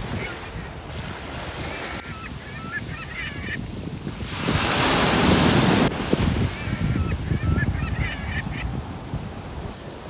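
Birds giving clusters of short honking calls over a steady wash of waves and wind. There is a louder rushing noise from about four to six seconds in.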